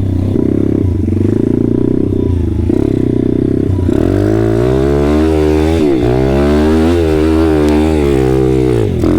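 Moped engine running steadily at low speed. From about four seconds in it revs up and down again and again, its pitch rising and falling.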